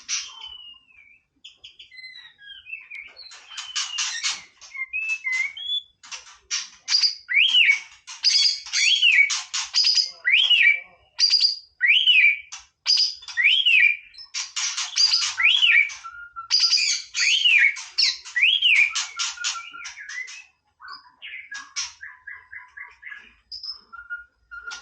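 White-rumped shama singing: fast chattering trills mixed with clear whistled notes, with a note that rises and falls repeated about once a second through the middle of the song.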